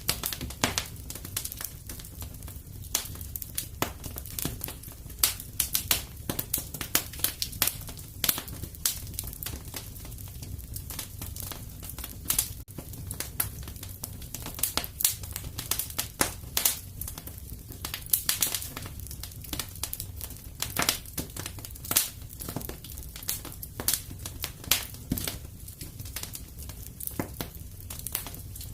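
Wood fire crackling in a fireplace: dense, irregular snaps and pops over a low, steady rumble.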